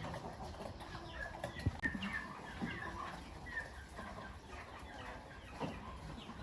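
Farmyard poultry clucking and cheeping: many short, high calls scattered throughout, with a couple of soft thumps.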